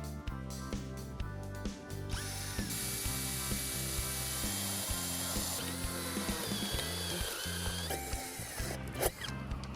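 A power tool runs for about six seconds, starting up and winding down, with a sharp click near the end, over background music.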